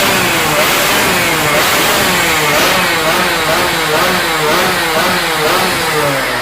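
Two-stroke road-race motorcycle engine being revved in repeated short throttle blips, about one a second, the pitch jumping up and sliding back down each time.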